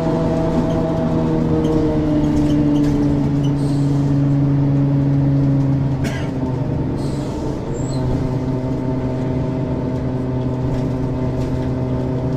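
Diesel engine of a 1994 Ikarus 435 articulated bus with a ZF gearbox, running while the bus is under way. The engine note sinks slowly over the first six seconds. A click and a brief dip come about six seconds in, then the engine runs steady at a lower note.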